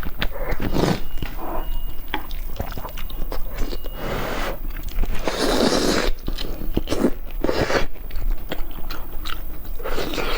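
Close-miked biting and chewing of eggs: a person's mouth working on the food with small wet clicks and smacks that go on throughout, a louder stretch of chewing about halfway through.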